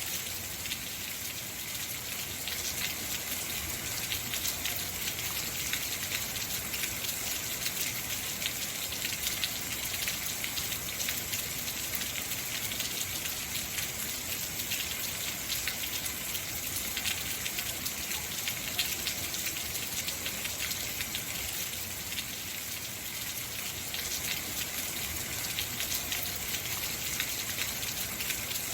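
Heavy rain falling steadily, a dense even hiss of many drops striking hard surfaces.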